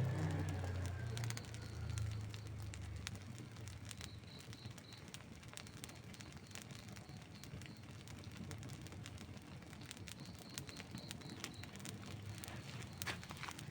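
Wood campfire crackling and popping in irregular sharp snaps, with a burst of louder pops near the end. A low rumble with a slowly falling whine fades away over the first few seconds.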